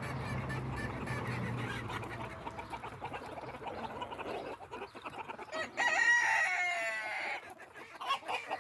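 Backyard chickens clucking, then a rooster crows once, loudly, about six seconds in, one drawn-out call lasting about a second and a half.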